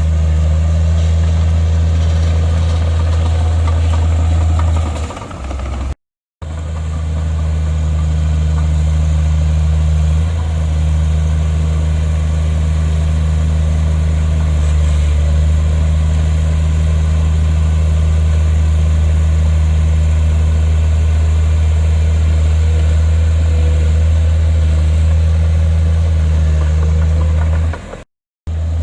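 Heavy diesel engine of earthmoving machinery, a bulldozer or dump truck, running steadily with a deep, even drone. The sound cuts out completely for a moment about six seconds in and again near the end.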